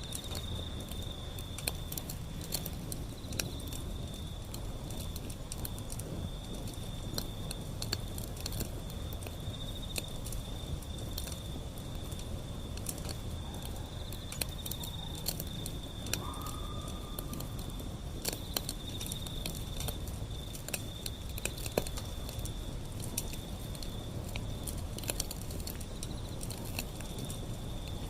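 Wood fire burning, with scattered sharp crackles and pops over a low rumble. A steady, pulsing high-pitched insect trill runs underneath, and a brief whistle-like tone sounds about sixteen seconds in.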